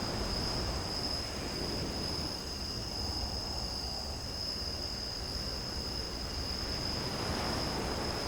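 Crickets trilling steadily in a high, thin, unbroken tone over a continuous low rushing noise.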